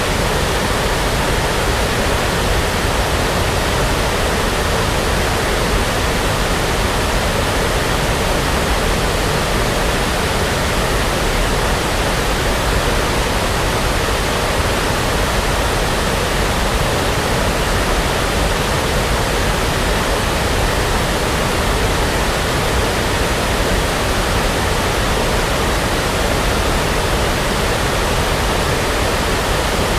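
Steady synthetic brown noise, a constant even hiss with a deep rumble underneath, unchanging throughout.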